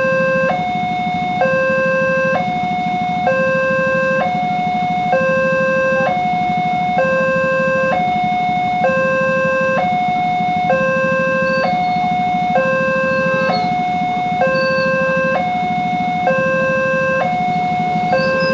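Railway level-crossing warning alarm: an electronic two-tone signal alternating a lower and a higher tone, each held about a second, repeating steadily. A steady low rumble runs underneath.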